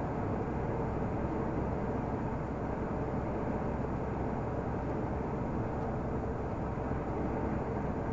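Renault Magnum 480 truck's 13-litre straight-six diesel running steadily under way, with road and driving noise.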